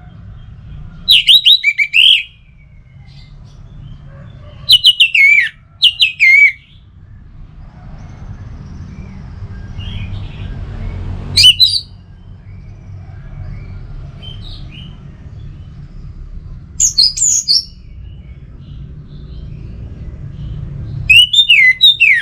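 Orange-headed thrush singing loud, rapid warbling phrases, about six short bursts a few seconds apart, over a steady low rumble.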